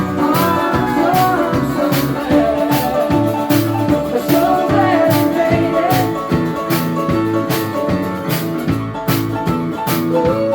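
A rock band playing live: drums keep a steady beat under guitars, with a bending lead melody line above.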